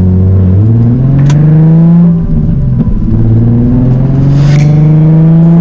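Nissan 350Z HR's 3.5-litre V6 with a straight-piped Tomei exhaust accelerating, heard from inside the cabin. The engine note climbs steadily, drops at an upshift about two seconds in, then climbs again through the next gear.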